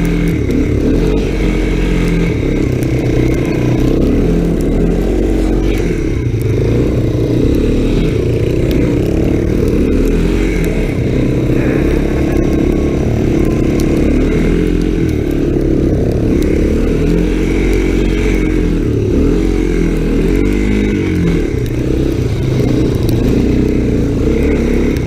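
Small single-cylinder off-road engine running hard while being ridden through snowy turns, its pitch rising and falling every couple of seconds as the throttle is opened and eased off.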